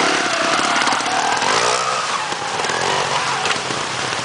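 Trials motorcycle engine running and revving, with a rising rev about one and a half seconds in.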